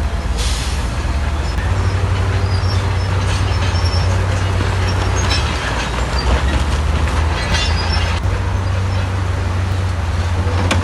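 Heavy diesel earthmoving machinery running steadily under load, its engine drone deepening about two seconds in, with bursts of metallic clanking and squealing, the kind that steel tracks or stones scraping on steel make.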